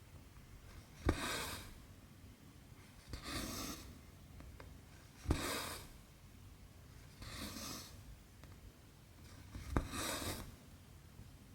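Cotton embroidery thread drawn through cross-stitch fabric in a slow rhythm: about five soft rasping pulls, one every two seconds. Every other pull starts with a small tick as the needle pierces the cloth.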